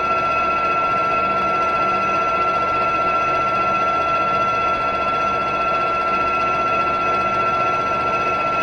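Machine tool running steadily with a constant high whine and a few fixed tones over a mechanical hum, while new washers are being machined.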